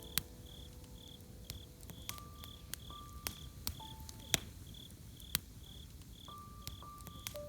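Crickets chirping in a steady rhythm, about two to three chirps a second, over the irregular pops and crackles of a campfire burning wood.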